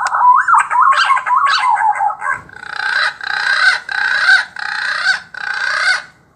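Recorded bird calls played through a hunting bird-caller speaker: a fast run of rising and falling whistled notes, then five harsh, drawn-out calls in a row.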